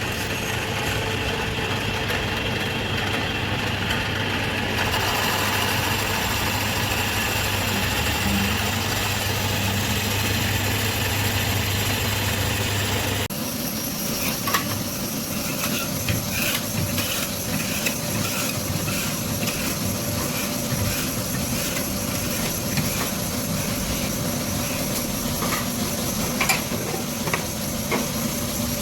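Twin-head boring machine running steadily with a low hum. About 13 seconds in the hum stops abruptly and a lighter machine noise with scattered sharp clicks follows.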